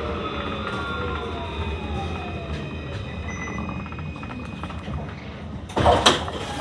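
C Class tram (Alstom Citadis) running with a low rumble, its electric traction drive whining down in pitch over the first few seconds as it slows for a stop. A loud sudden clatter comes near the end.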